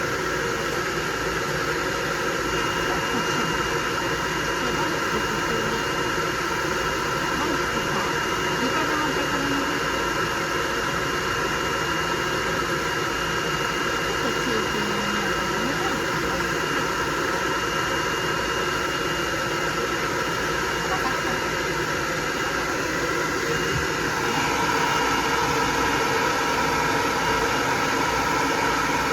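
Hair dryer blowing steadily on a dog's coat, its sound shifting a little near the end.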